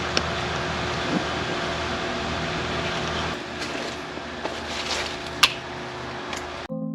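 Steady rushing outdoor noise with a few short sharp knocks, one just after the start, one about a second in and a louder one near five and a half seconds. Background music cuts in just before the end.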